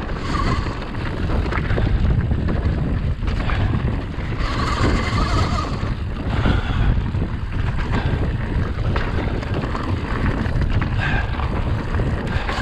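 Wind buffeting the microphone and tyre noise from an e-mountain bike ridden fast on a dirt trail, a continuous loud rumble. A higher whine comes in for a second or so about four and a half seconds in and again near the end.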